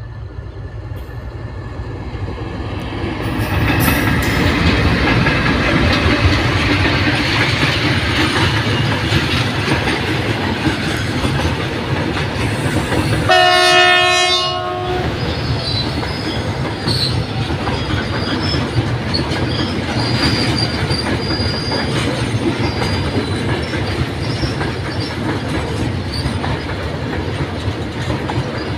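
A long train of flat wagons loaded with rails passing close by. The wheels rumble and clatter over the rail joints, growing louder over the first few seconds as the train draws near. A train horn sounds for about a second and a half near the middle, and a few short, high-pitched wheel squeals follow later.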